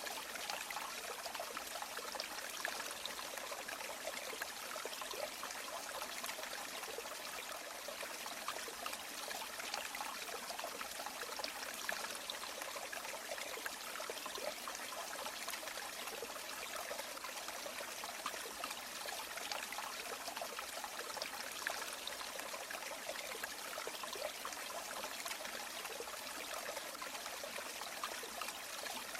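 River water running steadily: an even, unbroken rush and trickle with little deep rumble.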